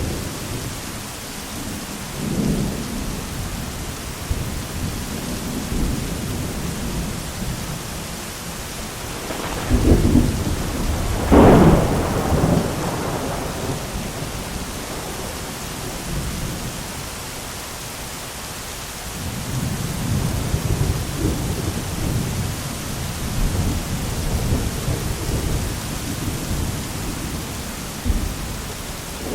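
Thunderstorm: steady rain with thunder, a loud clap of thunder about ten seconds in and a long rolling rumble in the last third.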